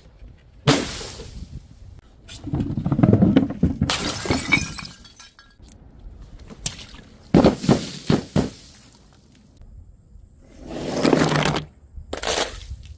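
Glass bottles and jars shattering in a series of about five separate crashes, each a sudden smash with glass fragments ringing and tinkling after it.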